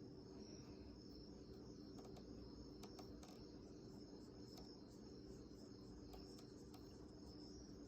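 Near silence: faint room tone with a steady high thin tone, a low hum and a few soft ticks.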